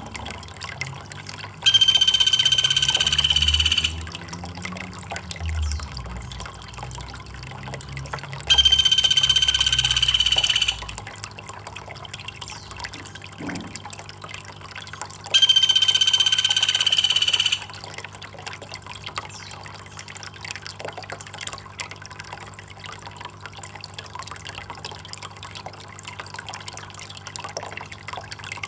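Trickling water runs steadily. Over it a loud, flat, whistle-like call about two seconds long sounds three times, about seven seconds apart, each time identical like a looped sample.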